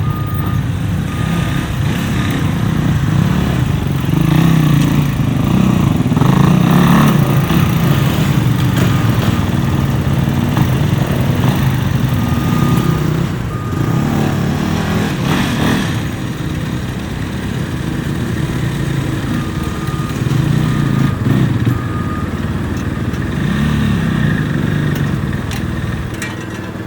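Supercross dirt bikes running on the track, engines revving up and down as riders work the throttle. The bikes are loudest a few seconds in and again about halfway.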